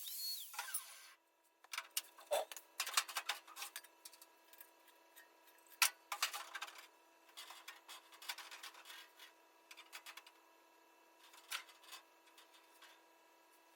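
A power tool spins down in the first second, then irregular clicks, taps and scrapes of tools and metal parts being handled, the sharpest click about six seconds in.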